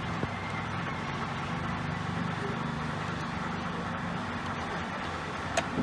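Steady low mechanical rumble like a running engine or passing traffic, with one sharp metallic click near the end.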